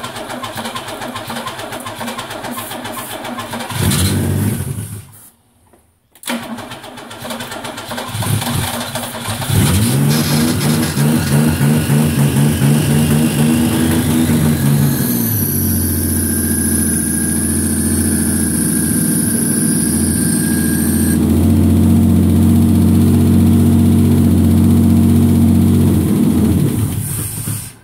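Opel Commodore GS/E engine being brought to life on its first start after 32 years. It fires and swells about four seconds in, dies for a moment, then is cranked again and catches. It picks up revs with rising pitch and runs steadily with the throttle held open, until it cuts off near the end.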